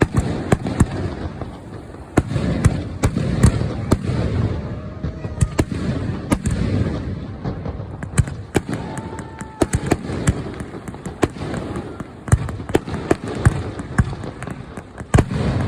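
Fireworks display: aerial shells bursting in a steady run of loud booms and sharp cracks, many in quick succession, with low rumbling between the bursts.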